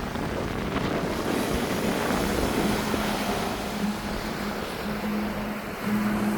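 A boat's motor running steadily, under wind noise on the microphone and the rush of water.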